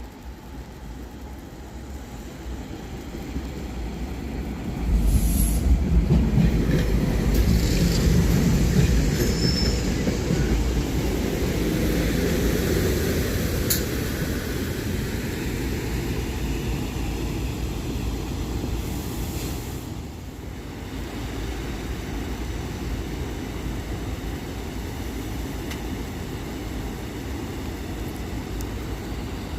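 A passenger train passing close by: the rumble of wheels on rail swells over a few seconds, is loudest for several seconds with brief high-pitched wheel squeal, then eases off after about twenty seconds into a steady lower rumble.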